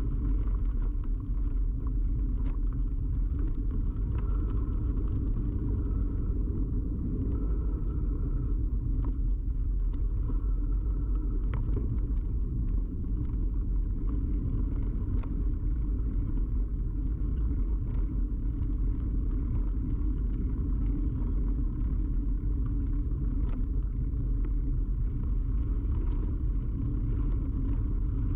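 Steady rumble of a moving bicycle picked up through a camera fixed to the bike, the ride's vibration carried straight into the microphone, with scattered light clicks.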